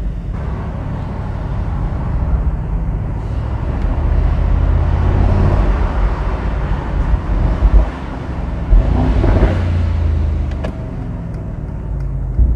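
Mercedes-AMG SL 63's twin-turbo V8 engine and sports exhaust under way, heard from the car, swelling twice as the car accelerates, with a couple of short sharp cracks in between.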